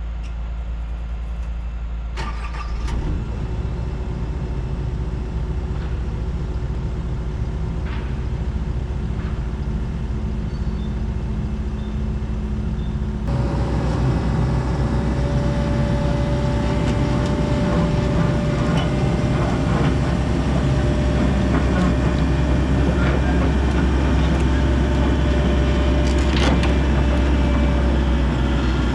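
Hitachi 135 excavator's diesel engine running. About 13 seconds in it steps up suddenly and gets louder, and a steady whine runs over it from then on.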